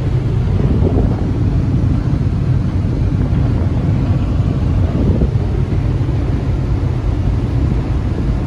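Touchless car wash air-jet dryers blowing a steady, loud rush of air over the car during the drying cycle.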